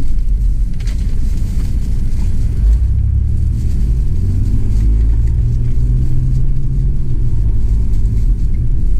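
A motor vehicle's engine running close by: a steady low rumble, with a faint engine note coming in about three seconds in.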